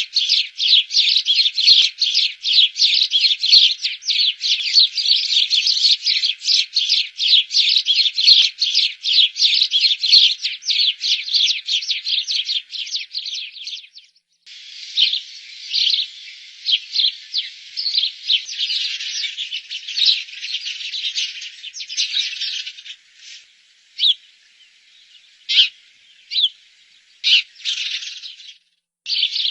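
A group of sparrows chirping, a dense rapid run of short chirps that breaks off abruptly about halfway through. It resumes more thinly and thins to a few scattered single chirps near the end.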